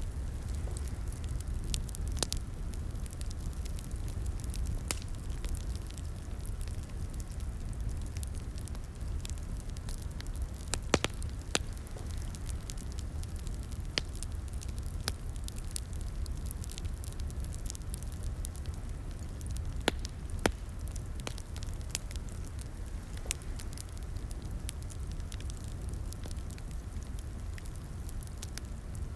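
Wood fire in a fireplace crackling: a steady low rumble of burning with scattered sharp pops, the loudest a little over a third of the way in and a pair about two-thirds in.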